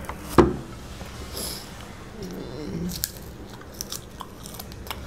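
Close-up chewing and biting on crumbs of fried chicken chop eaten by hand, with small crunches and clicks. One sharp knock about half a second in.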